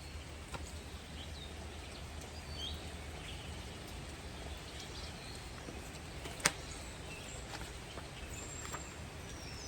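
Quiet room with a steady low hum, a few faint, short high chirps and one sharp click about six and a half seconds in.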